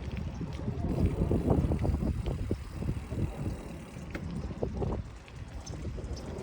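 Wind buffeting the microphone and road rumble from a moving bicycle, with scattered small clicks and rattles.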